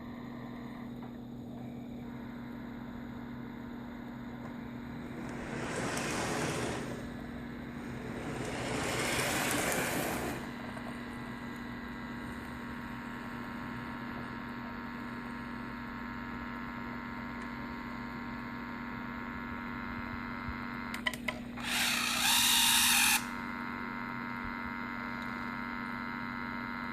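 Lionel R-30 O-gauge subway train running along the test track over a steady electrical hum, its motor and wheels swelling up and fading away twice. A few clicks and a sudden, louder burst lasting about a second come near the end.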